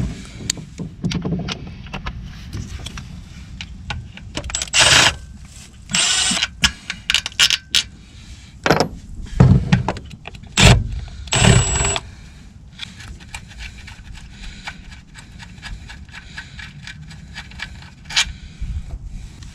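Metal hand tools and loose bolts clinking, scraping and rattling against metal while the rear main seal housing is unbolted from a BMW E36 engine. The loudest clatters come about five, six and ten to twelve seconds in.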